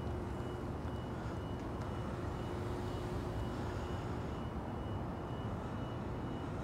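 Steady low rumble of a train in the distance, with a faint high whine and a steady hum that stops about three seconds in.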